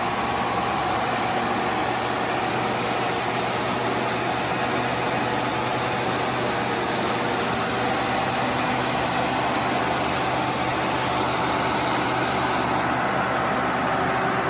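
Logging truck's diesel engine running steadily at an even pitch.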